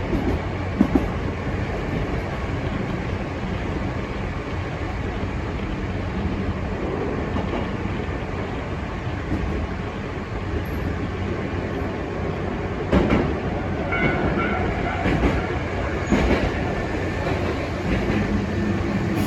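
Hankyu electric commuter train running along the track, heard from inside the car: a steady rolling rumble with a low motor hum, and a few sharp wheel-on-rail knocks from about 13 seconds in.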